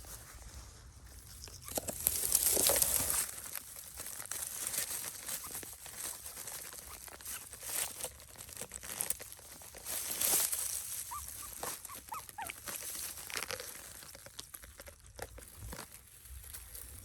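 Dogs feeding: irregular rustling and crunching, with a few short high squeaks about two-thirds of the way through.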